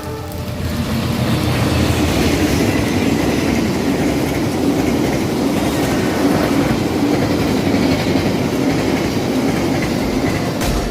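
Lodaya passenger train running through the station at speed, a loud steady rush of wheels on rail with some clickety-clack, building over the first couple of seconds.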